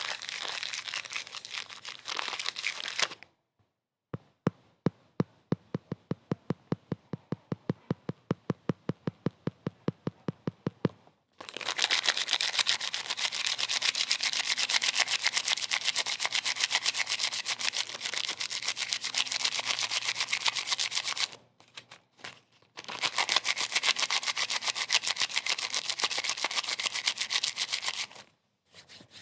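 Fast rubbing strokes in long dense bursts, broken near the start by a run of separate, evenly spaced clicks at about five a second.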